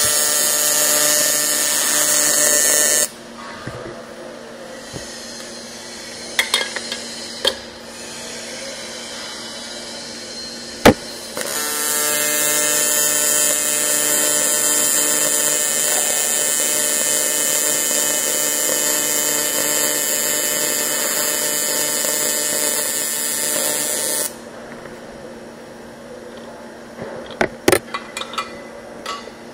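Electric welding arc buzzing steadily on 1.5 mm A5052 aluminium sheet, sealing a tank seam. One bead stops about 3 seconds in, and a second, longer bead runs from about 11 to 24 seconds. Between the beads a lower hum is heard, with a few sharp clicks.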